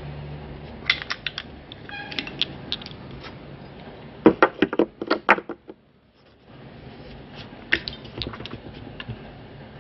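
Sharp clicks of the iJoy Maxo Zenith vape mod's fire button being pressed repeatedly in quick runs to try to turn the mod on, with the loudest, fastest run about four to five seconds in; the mod won't power up.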